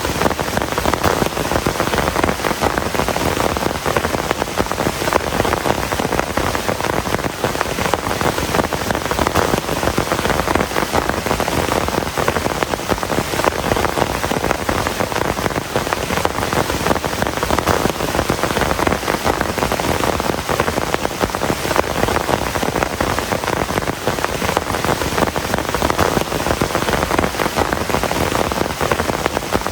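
Heavy rain falling steadily, a dense, even patter of drops hitting surfaces with no let-up.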